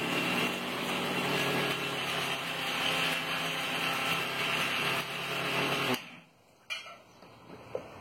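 Electric mixer grinder running steadily, grinding dry spice masala finer. It cuts off abruptly about six seconds in, followed by two short knocks.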